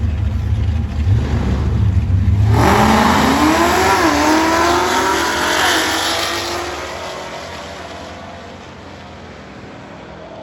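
A drag car's engine rumbling low, then launching hard about two and a half seconds in. The engine note climbs, drops briefly at a gear change, climbs again and fades as the car runs away down the strip.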